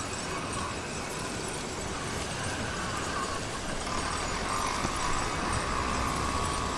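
Motorized bicycle's YD100 engine running steadily while riding, a wavering whine over a low, uneven rumble of wind and road noise.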